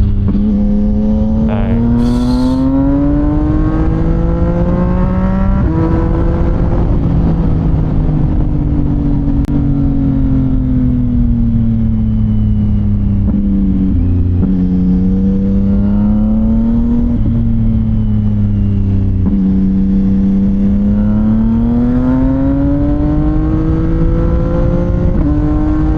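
CFMOTO 675NK's inline-three engine running through a titanium full-system exhaust while riding. The engine note climbs and falls several times as the throttle opens and closes, with a few abrupt steps in pitch.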